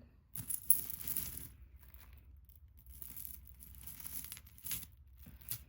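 Crinkling and rustling of packing being handled while jewelry is sorted through, in two stretches, with a couple of sharp clicks near the end.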